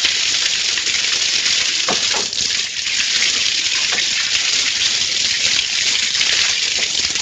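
Water spraying steadily out of leaking pipes under pressure, a loud continuous hiss.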